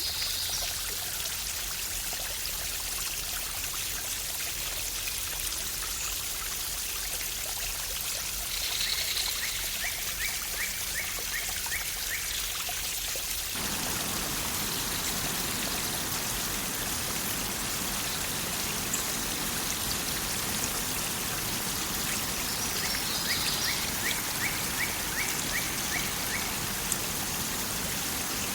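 Waterfall water rushing with a steady hiss. About halfway in, the sound turns suddenly fuller and deeper.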